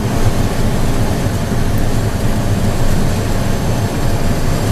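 Steady cockpit noise of a private jet on final approach: a low, even hum of the engines and rushing airflow, with no touchdown thump.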